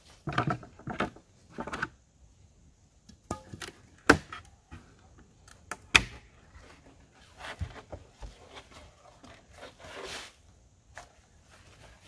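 Scattered handling noises: a quick run of rustling knocks at the start, then two sharp clicks, one about four seconds in and one about six seconds in, and softer rustling near the end.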